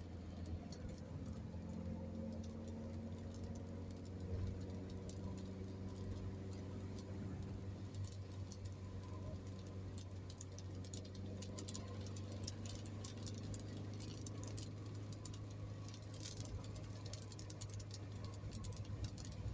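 Steady low drone of a car driving at highway speed, with light raindrops ticking on the vehicle. The raindrop ticks grow more frequent from about eight seconds in.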